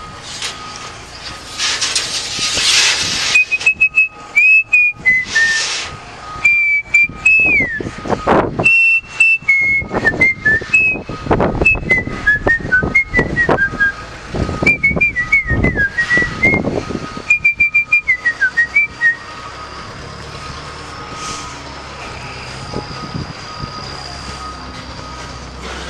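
A person whistling a wandering tune for about fifteen seconds, broken up by sharp clattering knocks, over a faint steady high tone. The whistling stops a little past the middle, and only the tone and low background noise go on.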